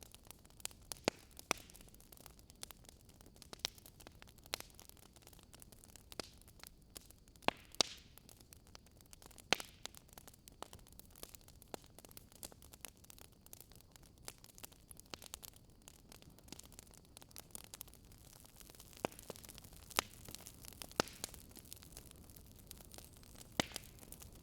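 Campfire burning, with irregular sharp crackles and pops from the wood over a soft steady hiss.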